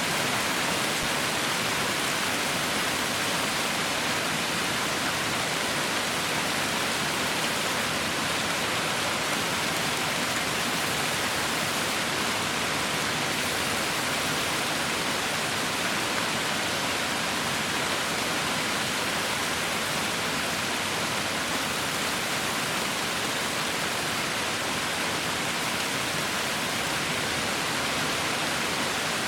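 Heavy rain falling steadily: a dense, even hiss with no distinct drops or breaks.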